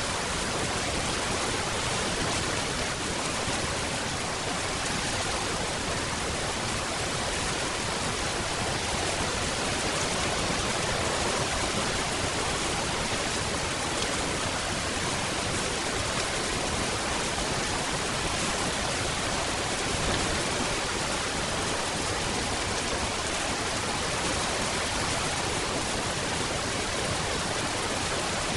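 Steady rain falling, a dense, even hiss with no single drops standing out and no change in level.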